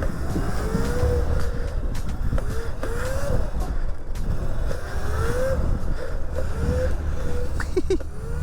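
Electric pitbike motor whining as it is ridden, the pitch rising and falling about six times with the throttle, over heavy wind rumble on the microphone.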